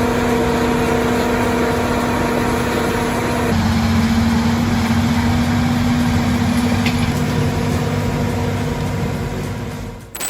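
Heavy engine running steadily, its tone shifting about three and a half seconds in and fading near the end.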